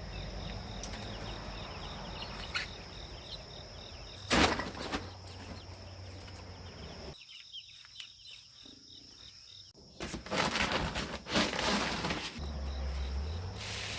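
Crickets and other insects chirping steadily. There is a sudden clatter about four seconds in, and louder rustling and handling noise around ten to twelve seconds.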